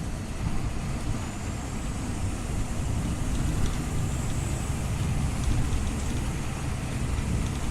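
Scania OmniLink CL94UB city bus running: a steady low engine and road rumble.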